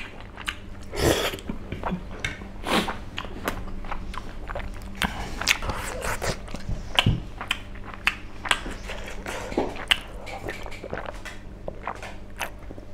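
A person chewing soft, sticky tteokbokki rice cakes close to the microphone, with wet mouth and lip smacks coming in irregular short clicks throughout and a few louder ones.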